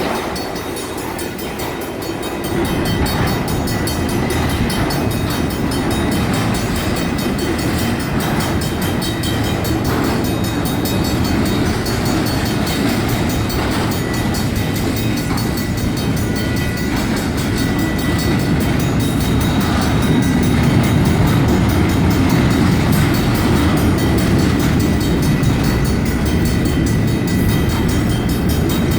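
Union Pacific double-stack intermodal freight train rolling through a grade crossing: a steady loud rumble of wheels on rail that grows a little louder about two seconds in. The crossing's mechanical bells keep ringing above it.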